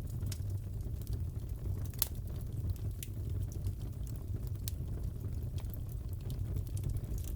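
Wood fire crackling in a fireplace: a steady low rumble of flames with irregular sharp pops and snaps, a louder pop about two seconds in.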